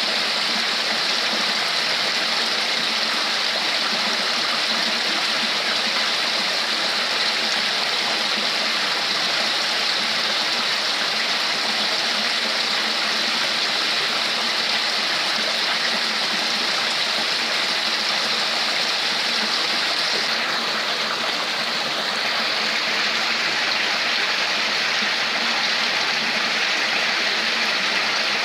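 Water flowing and splashing steadily, like a stream or small waterfall: an even rushing babble.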